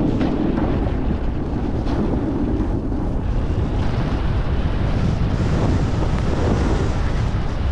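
Strong wind buffeting the microphone: a steady, loud low rumble with hiss above it.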